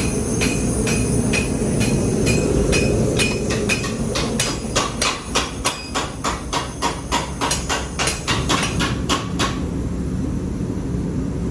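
Hand hammer striking metal on an anvil in steady blows, about three a second, each with a short metallic ring, while spreading the end of a Mjolnir pendant blank; the blows stop about nine and a half seconds in. A steady low rumble runs underneath.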